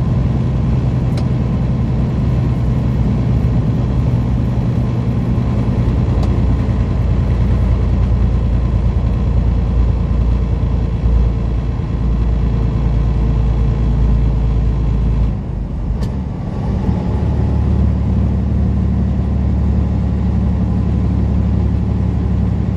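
Semi-truck's diesel engine running steadily, heard from inside the cab as a low drone. About fifteen seconds in it dips briefly, then comes back at a different pitch.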